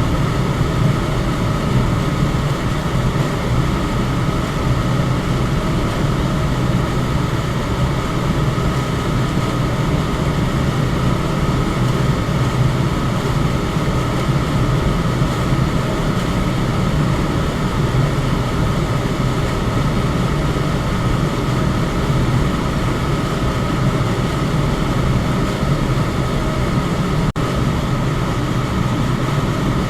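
Electric fan running steadily: a constant low hum under an even rush of moving air, with a faint steady whine. The sound drops out for a split second near the end.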